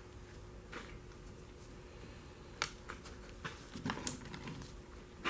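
Tempest aviation oil filter cutter being turned by hand around a steel oil filter can: scattered light clicks and scrapes, a few close together near the end.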